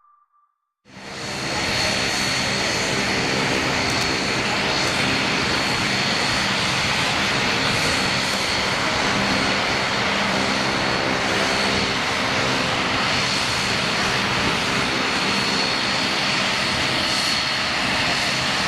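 Bombardier Dash 8-402 (Q400) twin turboprop, its Pratt & Whitney Canada PW150A engines and propellers running at a steady loud drone with a thin high whine over it. The sound fades in about a second in.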